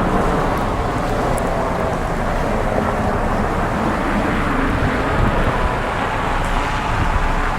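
Strong snowstorm wind blowing across the microphone in a steady roar, mixed with street traffic.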